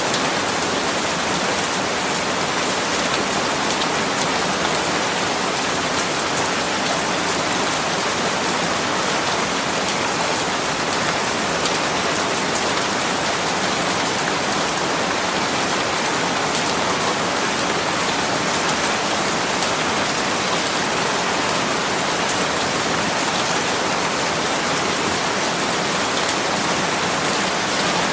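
Steady rainfall, an even hiss with fine drop patter and no lulls or thunder.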